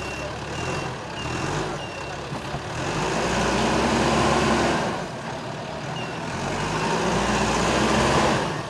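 Heavy vehicle's engine running and revving up twice, with a reversing alarm beeping about twice a second for the first two seconds and once more near six seconds.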